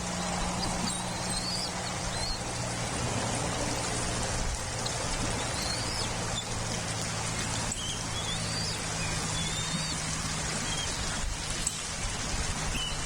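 Steady hiss over a low constant hum on an outdoor nest-camera microphone, with a few faint, short, high bird chirps now and then.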